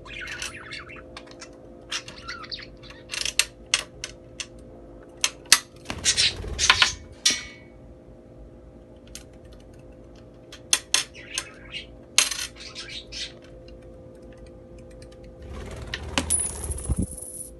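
Coins clinking and dropping, handled by a parrot: irregular clusters of sharp metallic clicks, one coin ringing briefly about seven seconds in. Near the end there is a scraping rustle lasting about two seconds.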